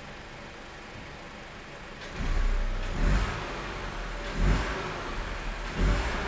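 Opel Astra K 1.4 turbo four-cylinder engine coming in about two seconds in and then revved in three short throttle blips about a second and a half apart, running through a newly fitted replacement exhaust.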